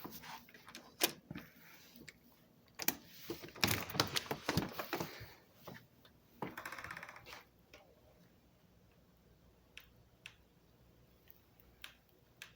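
A quick run of clicks, knocks and rattles, densest about three to five seconds in, with a short rattling stretch after it and a few scattered ticks near the end.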